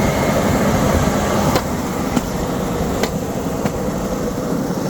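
Steady rumbling noise with four short sharp clicks between about one and a half and four seconds in.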